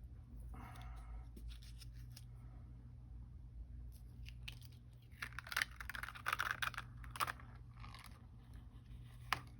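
Plastic stencil and its washi tape being peeled off card stock. The crinkling, tearing handling noise gets louder from about five seconds in.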